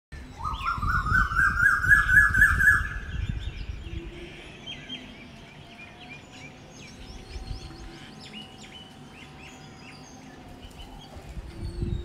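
Birds calling: a loud run of about nine quick notes climbing steadily in pitch over the first three seconds, over a low rumble, then many short, high chirps for the rest of the time.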